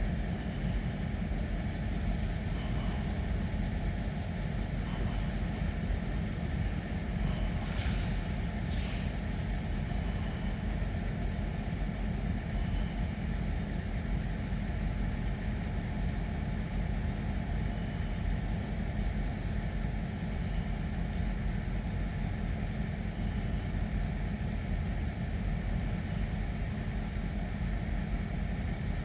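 Diesel locomotive engine running steadily, with a brief hiss of air about eight seconds in.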